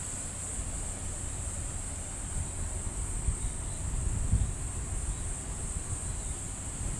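A steady, high-pitched drone of insects calling, with wind buffeting the microphone in gusts that swell about four seconds in.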